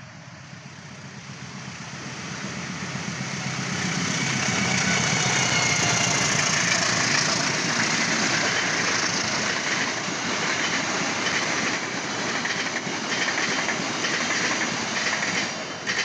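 Locomotive-hauled passenger train passing close by: the noise builds as the diesel-electric locomotive approaches and is loudest about five seconds in. The coaches' wheels then keep up a steady rumble with a rhythmic clatter over the rails, which drops away as the last coach goes by at the very end.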